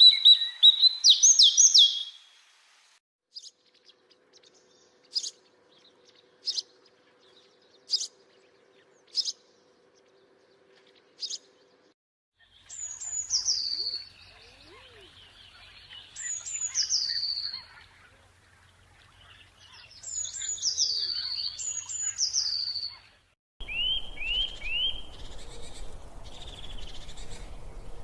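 Songbirds singing and calling in turn. First comes a short burst of song, then single sharp chirps about once a second, then repeated trilled phrases that slide down in pitch. Near the end a different bird gives short rising notes over a steady background hiss.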